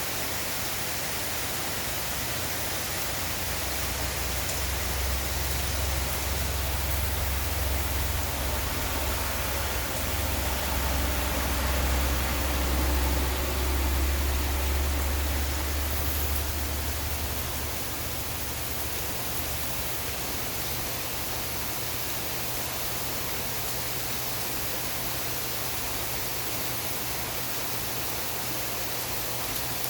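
Steady hiss of falling rain. A low rumble swells under it for the first half and fades out about eighteen seconds in.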